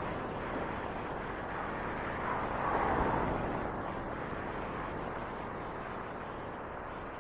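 Steady city road traffic noise, with a vehicle passing and swelling louder about three seconds in.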